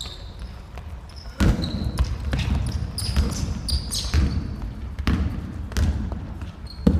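A basketball bouncing on a gym floor: a run of irregular thumps starting about a second and a half in, with sneakers squeaking on the court now and then.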